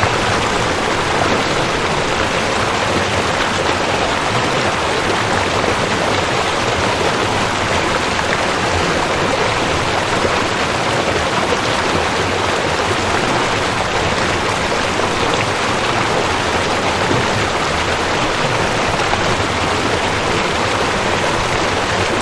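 Rushing creek: water flowing in a steady, unbroken rush.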